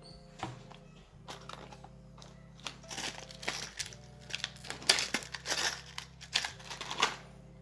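Hand riveting on a plastic steering-wheel airbag cover: a string of crunching and clicking noises with several sharp snaps between about three and seven seconds in. Background music plays throughout.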